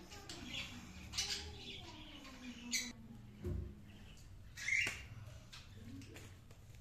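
Pet lovebirds giving a few short, sharp squawks and chirps, the loudest about five seconds in.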